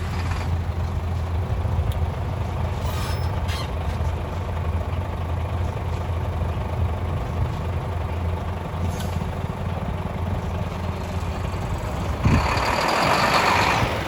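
Heavy snow-removal trucks' engines running steadily with a low hum, then a loud hiss of a truck's air brakes releasing about twelve seconds in, lasting nearly two seconds.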